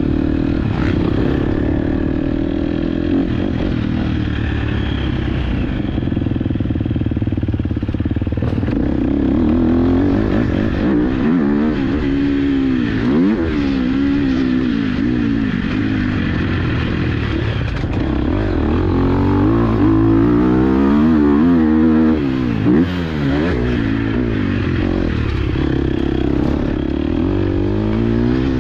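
Dirt bike engine heard from on board, running fairly steadily for the first several seconds, then rising and falling in pitch over and over as the throttle is opened and closed around the motocross track.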